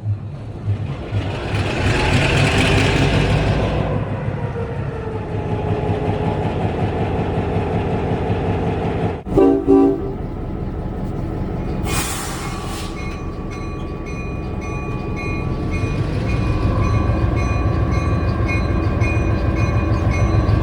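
EMD diesel locomotive engine running, its sound swelling in the first few seconds and again toward the end as it works harder. About nine seconds in the horn gives one short blast, and around twelve seconds a burst of air hiss.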